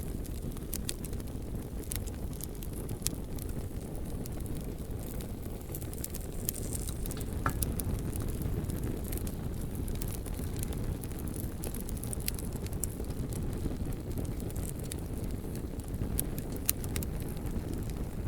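Bonfire of burning logs: a steady low rumble of flames with scattered sharp crackles and pops from the wood.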